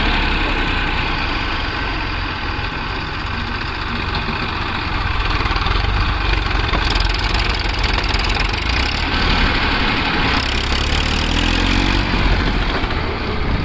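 Tractor's diesel engine running steadily, with its pitch rising briefly near the end.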